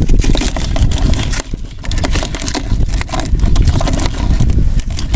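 Wind buffeting the microphone in a heavy, uneven low rumble, with scattered clicks and scrapes throughout.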